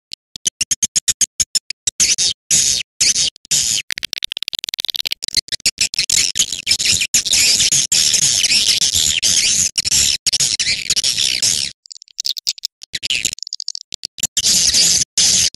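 Recorded swiftlet calls played as a lure: dense, rapid high-pitched twittering and chirping, with a short break about three-quarters through.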